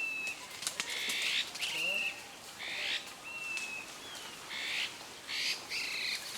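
Wild birds calling over and over: short, harsh notes repeated every half second to a second, with a thin whistled note twice, and a few sharp clicks about a second in.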